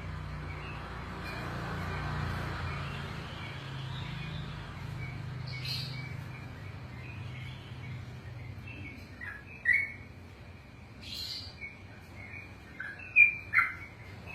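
Yellow-vented bulbul (trucukan) chirping in short notes, with a loud chirp about ten seconds in and two more near the end.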